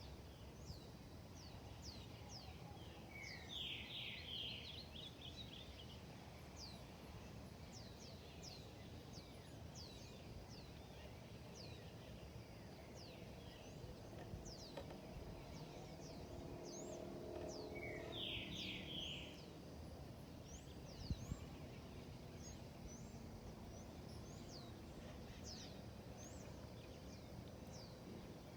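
Wild birds calling in a forest: short, high, falling whistles repeating over and over, with two louder bursts of rapid chattering notes about three seconds in and again near the middle, over a faint steady background hiss.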